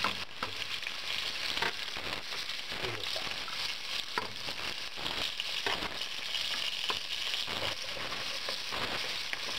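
Chopped onion and garlic sizzling steadily in hot olive oil in a frying pan, with scattered light clicks as pieces land and a wooden spoon stirring them in the pan near the end.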